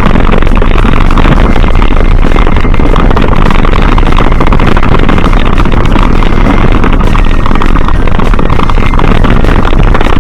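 Loud, steady wind rushing over the microphone of a moving camera, with no clear engine note.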